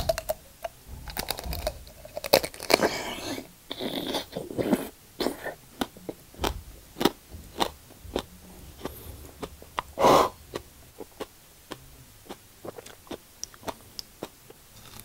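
Biting and chewing raw aloe vera leaves, with irregular crisp crunches and clicks as the leaf is bitten and chewed. One louder crunch about ten seconds in.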